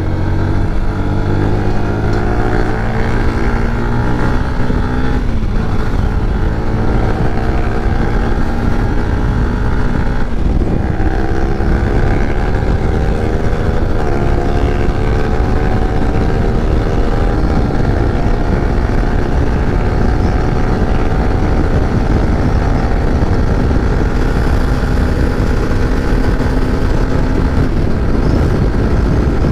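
Motorcycle engine accelerating through the gears, its pitch climbing and then dropping at each of four upshifts in the first eighteen seconds or so, then holding near steady at cruising speed.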